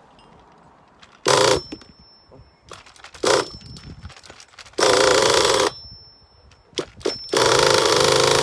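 O.S. Max .30VG nitro engine revving in short throttle blips, then held at high revs from about seven seconds in, as its freshly leaned high-speed needle is checked.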